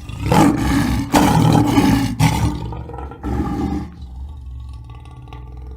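Big cat roar sound effect: three loud, rough roars in quick succession, then a quieter, lower rumble trailing on.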